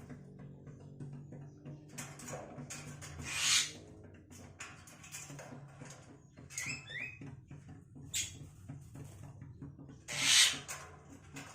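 Myna nestlings begging: harsh, hissing rasps about half a second long, the loudest near the end, with a few short falling chirps in between, over a steady low hum.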